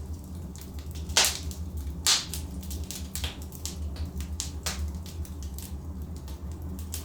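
Logs burning in a fireplace: a steady low rumble of the fire with irregular sharp crackles and pops, two louder pops about a second and two seconds in.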